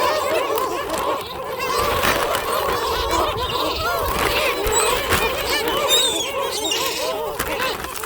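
A large flock of gulls calling all at once: a dense, unbroken chorus of many overlapping short squawks and cries.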